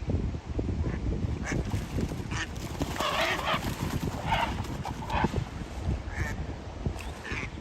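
A bird giving about seven short, separate calls spaced irregularly, over a steady low rumble.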